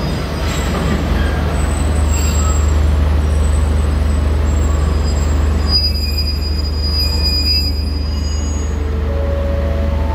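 State Railway of Thailand passenger train's coaches rolling slowly past the platform: a steady low rumble and running noise, with faint high thin tones from the wheels about six seconds in.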